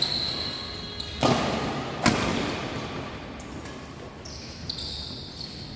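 Badminton play in a sports hall: two sharp racket hits on the shuttlecock, just over a second in and again about a second later, echoing in the hall, among short high squeaks.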